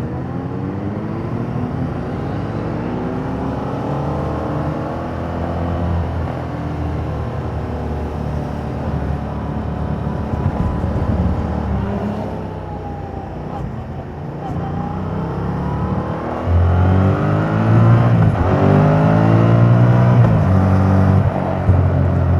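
Yamaha MT-07's 689 cc parallel-twin engine through its stock exhaust while riding, revving up and down through the gears. Near the middle the revs drop as the throttle is eased off. About two-thirds of the way through it gets louder under hard acceleration, with rising revs broken by gear changes.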